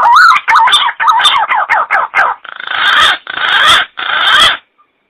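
Bird calls from a lure recording: a quick run of swooping whistled notes, then three harsh, noisy calls about half a second each, cutting off suddenly near the end.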